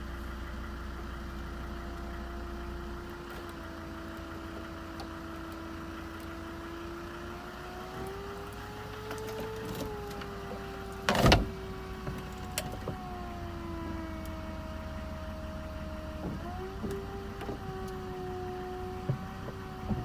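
Volvo C70's electro-hydraulic folding hard top closing: a steady motor whine that steps up and down in pitch as each stage of the roof moves. There is one loud clunk about eleven seconds in and a few lighter clicks.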